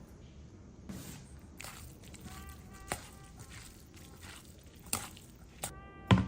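Kitchen prep sounds: a handful of sharp knocks and clicks from utensils, about a second apart, the loudest just before the end, with faint background music.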